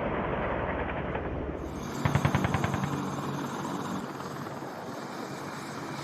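Helicopter noise, with a short burst of rapid automatic gunfire about two seconds in. The burst lasts roughly a second, then the helicopter continues alone, somewhat quieter.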